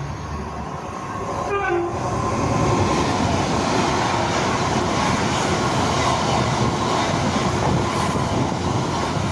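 Great Western Railway Class 802 bi-mode express train sounds a brief two-tone horn about a second and a half in, then passes fast with a loud, steady rush of wheel and engine noise.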